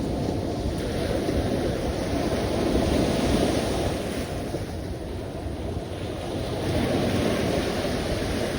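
Sea waves washing in, a steady rush of surf that swells twice, around three seconds in and again near the end, with wind buffeting the microphone.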